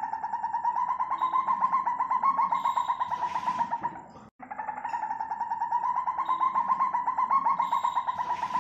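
Civet call: a fast buzzing trill held near one pitch for about four seconds, breaking off abruptly and starting again identically about four seconds in, a looped recording.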